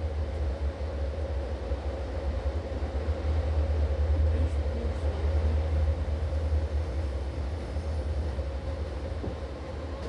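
Rhaetian Railway electric metre-gauge train running along the track, heard from on board: a steady low rumble with a faint steady hum above it.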